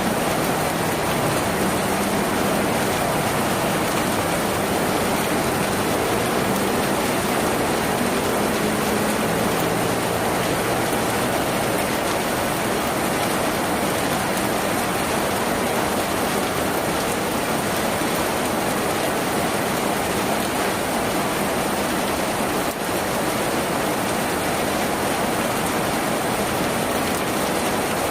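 Heavy, steady rain drumming on a tin roof, an even dense patter with no letup. A faint low hum sits under it for roughly the first ten seconds.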